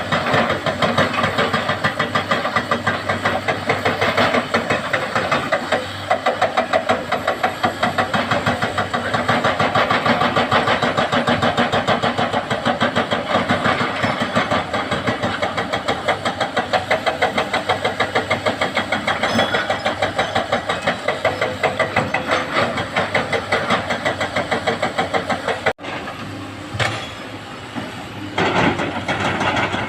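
Heavy diesel engine of earthmoving machinery running close by with a fast, even beat. It drops out abruptly about 26 seconds in, then comes back more unevenly.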